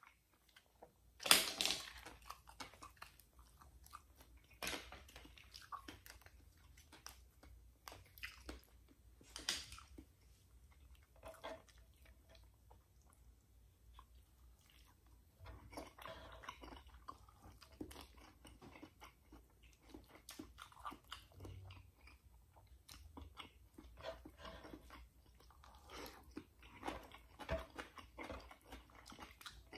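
A person chewing and eating garlic butter mussels and fried milkfish with rice by hand, close to the microphone. Scattered sharp clicks and smacks run through it, the loudest about a second in and again at about nine and a half seconds.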